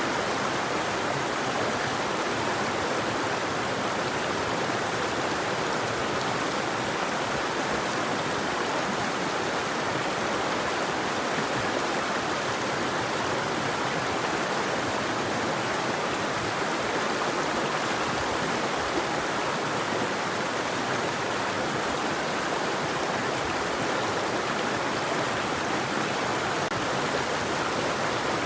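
River water flowing over rocks in a steady, even rush, with no birds or other sounds standing out.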